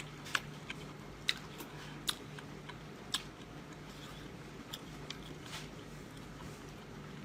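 Close-up eating sounds: a person chewing and biting, with sharp clicks every second or so, over a faint low steady hum.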